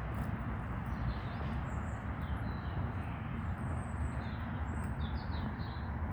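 Small birds chirping and calling now and then, short high notes scattered throughout, over a steady low rumble.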